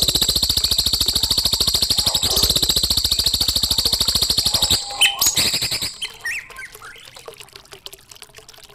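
Recorded bird song: a loud, very fast, even trill that runs for nearly five seconds and stops, followed by a few short chirps and a falling whistled note, then quieter calls near the end.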